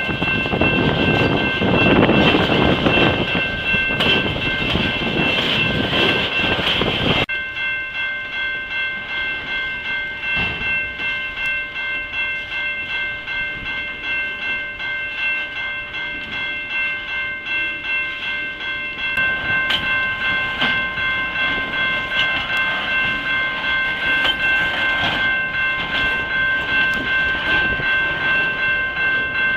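Freight train railcars rolling past close by, with the wheels clacking over rail joints in an even rhythm and a steady high ringing tone over the rumble. The sound drops suddenly about seven seconds in.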